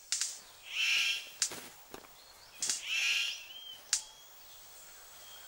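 Superb bird of paradise giving two harsh, buzzy calls about two seconds apart, with sharp clicks in between.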